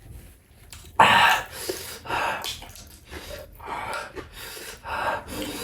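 A person's sharp, noisy breaths, several in a row, the loudest coming suddenly about a second in: gasping at the burn of very spicy (hot-chilli) food.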